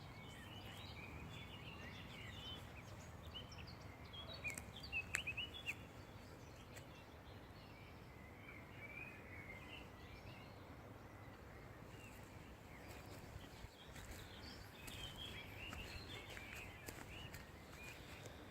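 Small birds chirping and twittering throughout, with a brief cluster of louder chirps about five seconds in, over a steady low background rumble.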